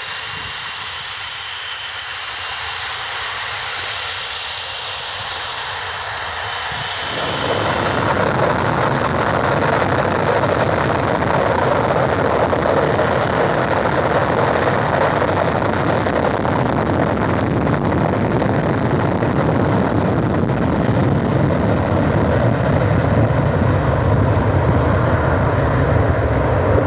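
Tornado GR4 jet with its twin RB199 turbofans: a high whine for the first seven seconds or so, then a sudden jump to a loud, sustained roar as the engines go to full power.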